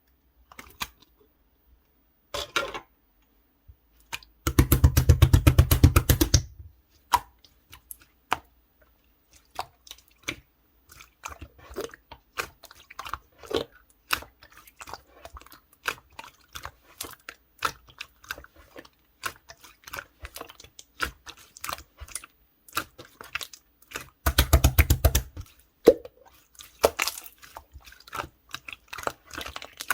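Slime being squeezed and worked by hand, giving sticky clicks and small pops throughout, with two longer runs of rapid crackling: one about five seconds in and one near the end.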